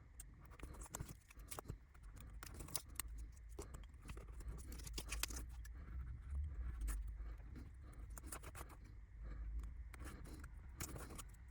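Scissors cutting thin clear plastic glazing sheet around small laser-cut model window frames: a run of small, irregular snips and clicks with light rustling of the sheet.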